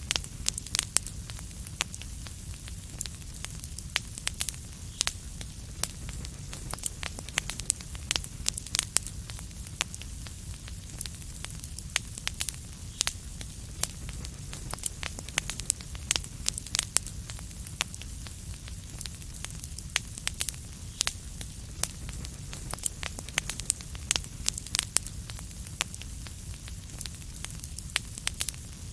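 Fireplace fire burning, with frequent sharp irregular crackles and pops over a steady low rumble of the flames.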